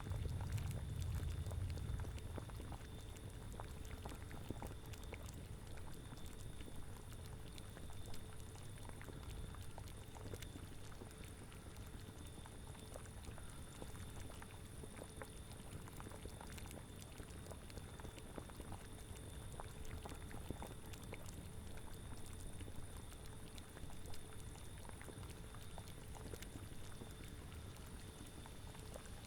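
Liquid boiling in a cauldron: a steady bubbling of many small pops. A low rumble fades out over the first two seconds.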